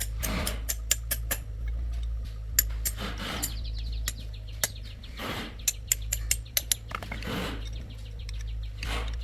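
Irregular sharp clicks and taps of tools on metal, with a few short scraping strokes about every two seconds, over a steady low hum.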